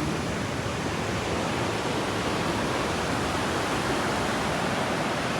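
Ocean surf on a beach: a steady wash of breaking waves, even in level throughout.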